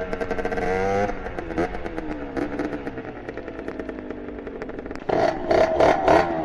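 Two-stroke Beta RR dirt bike engine with a 70 cc Airsal kit and expansion exhaust. It revs up, then eases off, its note sinking slowly. About five seconds in it jumps sharply louder as the throttle opens again.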